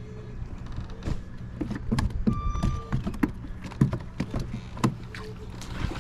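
Fishing reel being cranked in from a kayak, a whirring retrieve with many scattered clicks and knocks.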